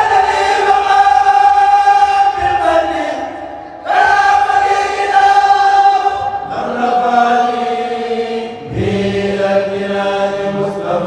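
Kourel chanting: a group of voices singing a Mouride xassida (Arabic religious poem) together, a cappella, in long held phrases, with new phrases starting about four, six and a half and nine seconds in.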